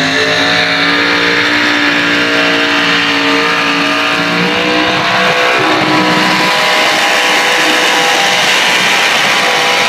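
Truck engine held at high revs under heavy load in a truck pull, loud and continuous, its pitch shifting a few times as it strains.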